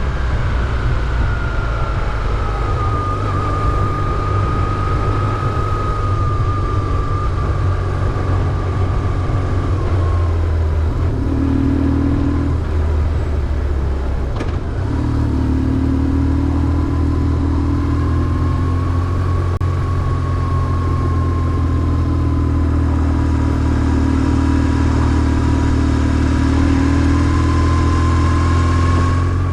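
BMW R1150GS air/oil-cooled boxer twin running steadily under way, with a thin whine wavering in pitch above it. About halfway through the engine sound dips briefly with a click, then picks up again.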